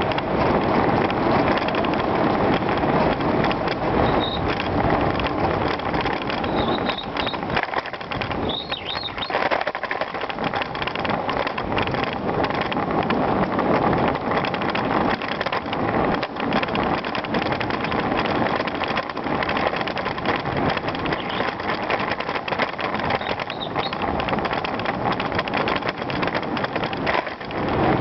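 Bicycle ridden over rough ground: continuous tyre noise with many small knocks and rattles from the bike, steady throughout.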